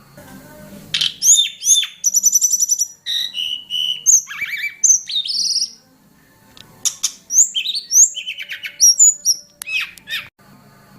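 Tledekan gunung songbird singing a varied song of sharp whistled notes, quick trills and sweeping chatter, in two runs with a short pause between them.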